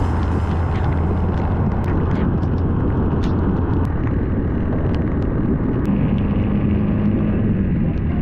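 Motorcycle riding along the road: a steady engine drone under wind and road noise, with a higher steady note coming in about six seconds in.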